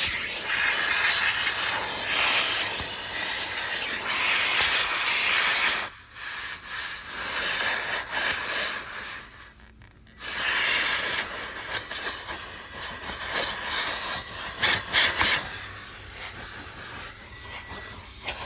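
Self-service car wash vacuum sucking through its hose and crevice tool, a loud rushing hiss that changes as the nozzle works over the car's interior. The hiss drops away about six seconds in and comes back about four seconds later, with a few sharp knocks of the nozzle near the end.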